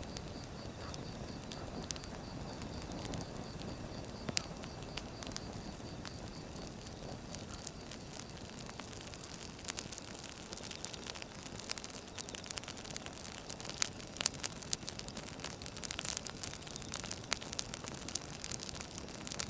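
Wood fire burning, crackling and popping over a low steady rumble; the pops come thicker in the second half.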